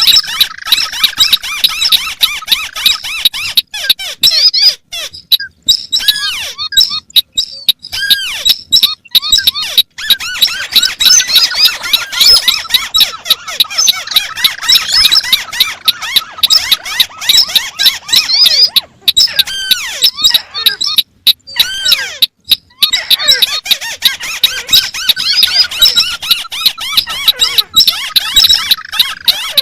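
Recorded calls of several crakes, the white-browed crake among them, layered over one another: a dense, rapid chatter of high squeaky notes with a few short breaks.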